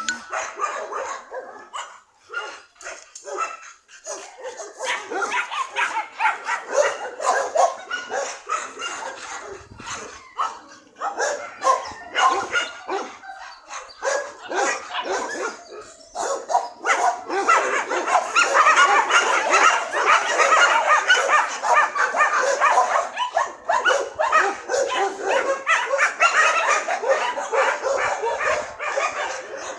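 Dogs barking and yipping, many short calls overlapping. The calls grow louder and run together without a break from a little past halfway.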